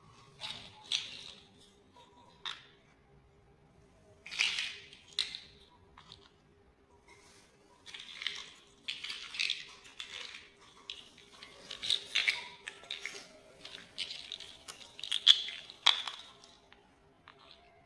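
Plastic building blocks being handled and pressed together: irregular crackly rustling and sharp clicks, coming in clusters, with the sharpest click near the end.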